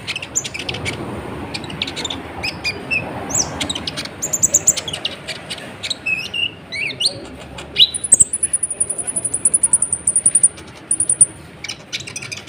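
Van Hasselt's sunbird (kolibri ninja) singing in full song: rapid high chirps and short sweeping notes, then a long, very high, fast trill from about eight to eleven seconds in.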